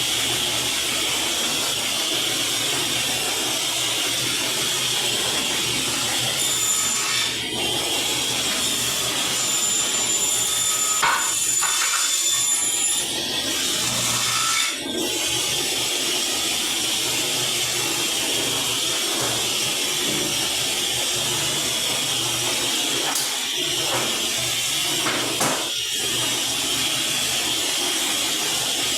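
Electric saw running steadily while cutting MDF board, with a few short knocks along the way.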